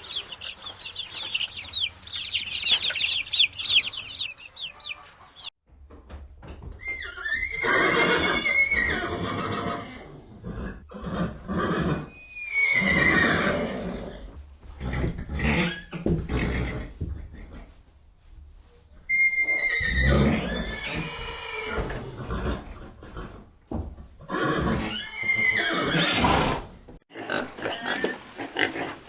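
Chickens clucking for the first few seconds, then horses whinnying several times, each neigh starting high and falling away with a wavering pitch.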